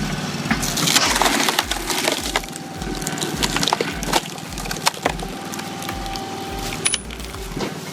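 Oak wood cracking and splintering under a wood splitter, with many sharp irregular cracks and snaps, densest in the first few seconds, as the tough old log gives way.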